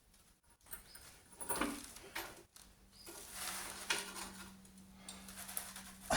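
Hand tools working on the lower brace bolts of a Jaguar XKR rear subframe: irregular scraping, knocks and clicks of metal on metal, with a sharper knock near the end. A low steady hum runs through the second half.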